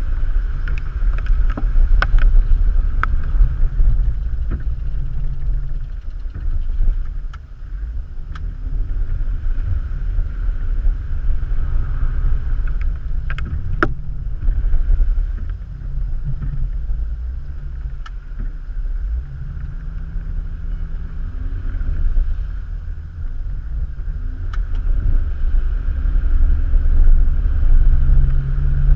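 SUV driving slowly over a rough dirt trail, heard from inside the cabin: a low engine rumble that rises and falls with the throttle, with scattered knocks and rattles from the body and suspension.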